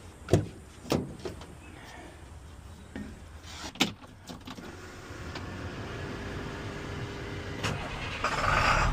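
A few sharp clicks and a knock as a Moffett truck-mounted forklift is switched on, then its engine runs with a steady rumble that gets louder near the end.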